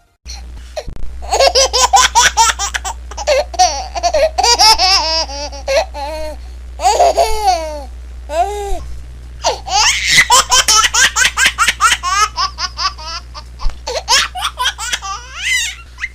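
A baby laughing in quick repeated bursts of giggles and high squeals with short breaths between, over a low steady hum.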